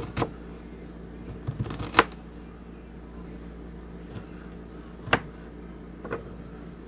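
A handful of sharp, separate knocks of a kitchen knife on a cutting board as diced onion is gathered up, the loudest about two seconds in, over a faint steady hum.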